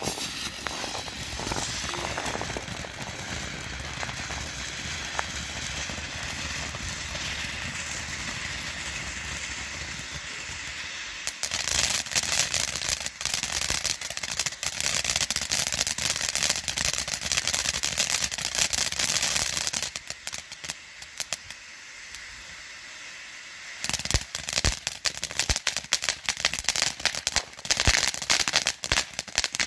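Phantom Fireworks Komodo 3000 fountain burning: a steady hissing spray for about the first eleven seconds, then dense crackling. The crackling drops back to a quieter hiss for a few seconds and returns a little before the end.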